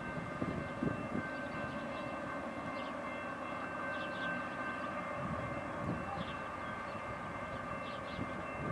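A train running at a distance: a steady rumble with several faint, steady high tones over it.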